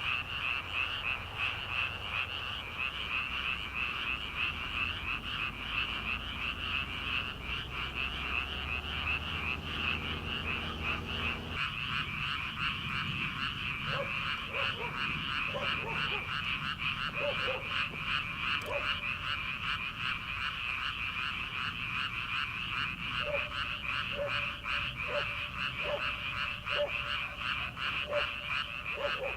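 A dense chorus of many frogs calling together in a rapid, continuous trilling croak. A low rumble under it stops about a third of the way in, and in the second half a lower-pitched call repeats about once a second over the chorus.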